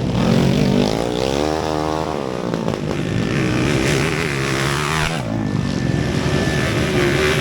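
Several small underbone motorcycle engines racing together, their pitches repeatedly rising and falling as the riders accelerate and shift.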